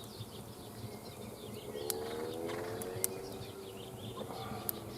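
Small birds chirping and twittering, with a few sharp clicks scattered through it. A low hum swells briefly in the middle and fades.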